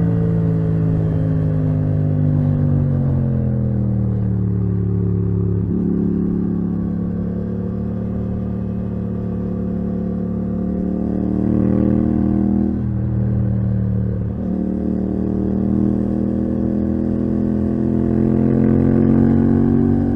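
Yamaha MT-07's parallel-twin engine through a titanium Akrapovič exhaust, heard from the rider's seat. Revs fall for the first few seconds, with a sudden break about six seconds in, then the engine runs fairly steady with a couple of brief dips before the revs climb again near the end.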